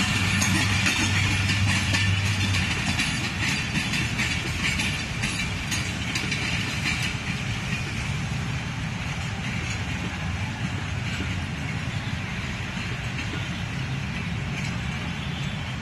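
Passenger coaches of a train rolling along the rails and moving away, wheels clicking over the rail joints; the rolling noise slowly fades as the last coach recedes.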